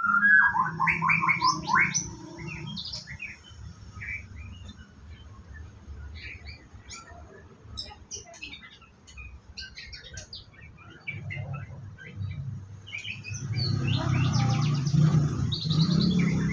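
White-rumped shama (murai batu) chirping and singing in short whistled notes, loudest in the first two seconds and again near the end, over a low hum.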